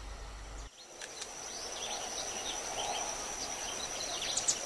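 Bush ambience: scattered short chirps of wild birds over an insect's steady high-pitched trill.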